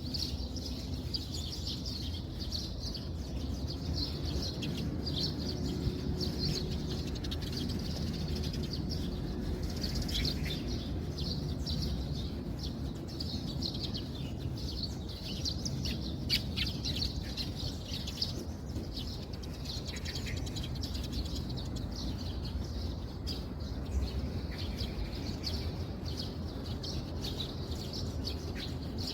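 Small birds chirping busily over a steady low rumble.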